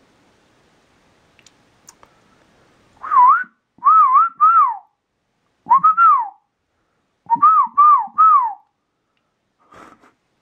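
A person whistling at a squirrel to shoo it off a bird feeder: loud, short whistles that swoop up and down, in three groups of three, one and three.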